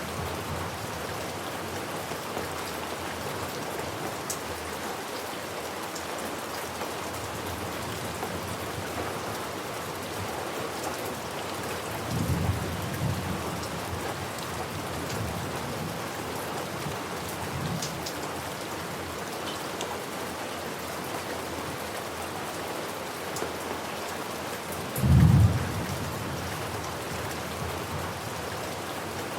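Steady rain falling, with low thunder rumbling about halfway through and a louder, shorter thunder rumble near the end.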